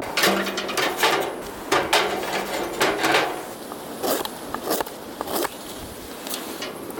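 An irregular series of knocks and rough clattering, roughly eight to ten strikes, as of wood or gear being struck and handled.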